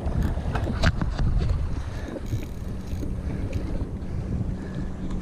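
Wind buffeting the microphone over water moving around a kayak, with one sharp knock about a second in.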